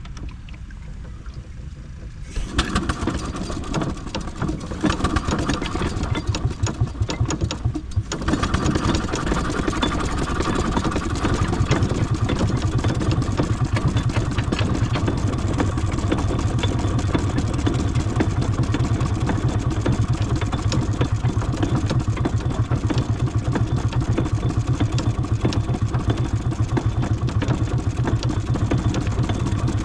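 Miniature steam traction engine running with a rapid, even beat as it crawls along in bottom gear. It starts up suddenly about two seconds in, falls back briefly around eight seconds, then runs on steadily.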